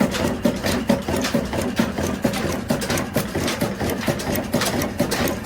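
18 hp diesel engine running steadily, with an even, regular knocking beat.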